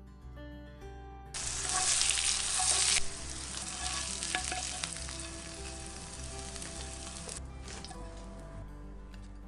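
Food sizzling and crackling in hot oil. It starts suddenly about a second in, is loudest for the next two seconds, then is softer until it cuts off near the end, over quiet instrumental music.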